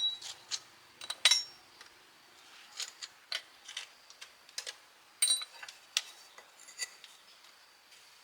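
Irregular light metallic clinks and taps, a dozen or so spread unevenly, like small steel parts or hand tools being picked up and set down.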